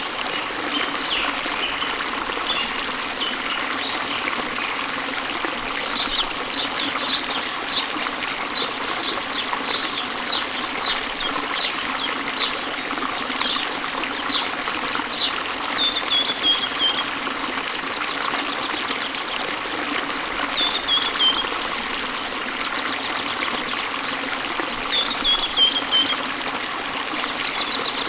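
Steady sound of falling water with birds singing over it: a quick run of short, repeated chirps from about six seconds in, then three short falling trills spaced a few seconds apart.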